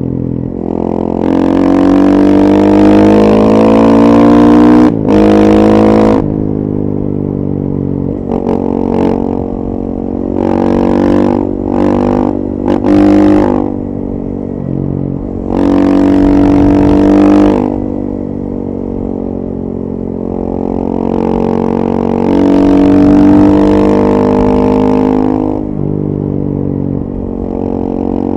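KTM 450 EXC supermoto's single-cylinder four-stroke engine on the move through a full FMF 4.1 exhaust, revs climbing and dropping again and again under throttle. A long climb in the first few seconds, a run of short throttle blips around the middle, and quieter off-throttle stretches between the pulls.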